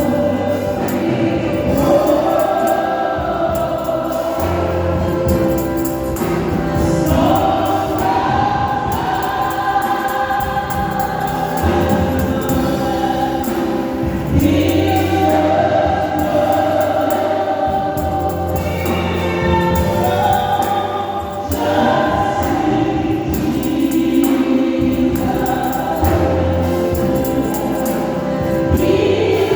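Church choir singing a gospel song in parts over an instrumental accompaniment with a steady bass line.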